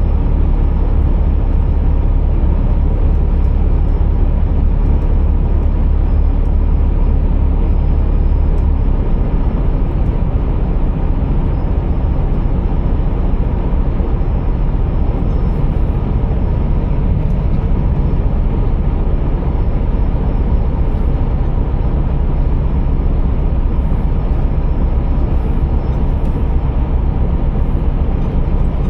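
Scania R480 truck's diesel engine running under way, with road and tyre noise, in a steady loud low drone. The engine note shifts about nine seconds in.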